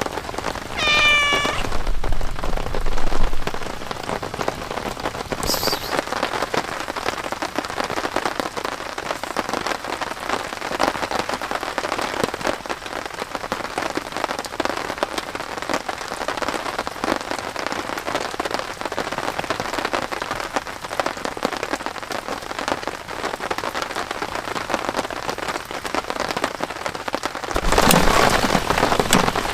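Steady heavy rain falling throughout. About a second in, a cat meows once. Near the end a louder noise rises over the rain.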